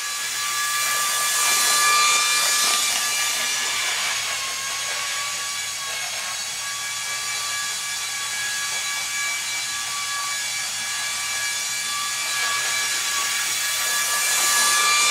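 Fan-powered HO scale model locomotive running a lap, its small electric fan motor giving a steady high whine over a hiss. It grows louder about two seconds in and again near the end as it passes close.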